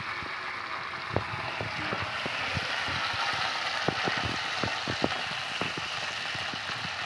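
Chopped okra sizzling steadily in hot oil in a wok (kadhai) over a wood fire, freshly tipped in, with scattered clicks from a steel ladle stirring against the pan.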